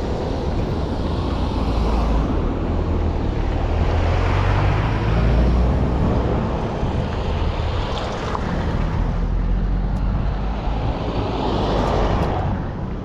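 Wind buffeting the microphone with a low rumble, under a rushing noise that swells and fades about four times.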